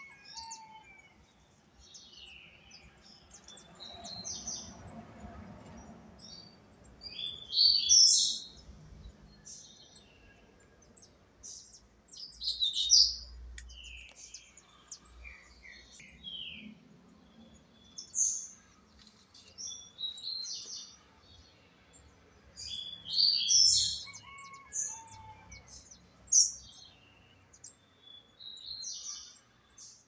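Songbirds chirping and calling: short, high notes and brief twittering phrases scattered throughout, with louder bursts every few seconds.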